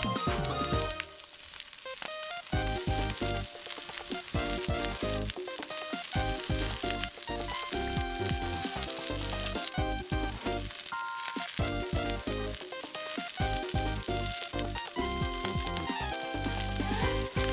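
Beef shoulder-loin steak sizzling over a campfire, the fat spitting in a dense run of quick crackles.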